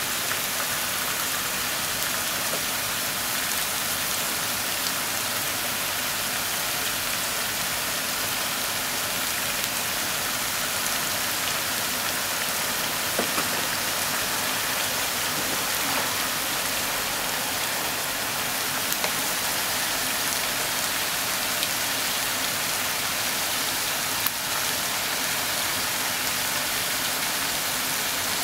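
Minced pork and chopped onion sizzling steadily in a frying pan, with a few faint clicks now and then.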